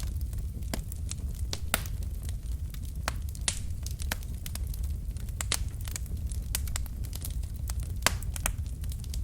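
Wood logs burning in a fireplace, crackling with irregular sharp pops and snaps over a steady low rumble of the flames; the loudest snaps come about two seconds in and near the end.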